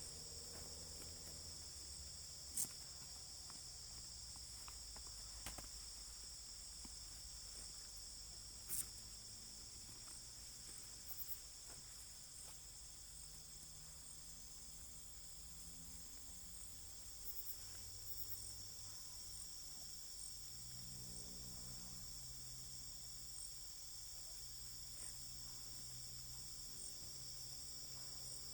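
Steady, high insect chorus running without a break, with two sharp clicks a few seconds apart near the start.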